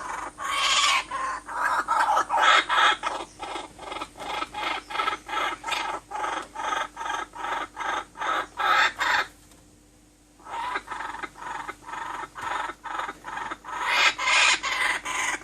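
Chicken clucking in quick, evenly repeated calls, about three or four a second, with a pause of about a second roughly two-thirds of the way through.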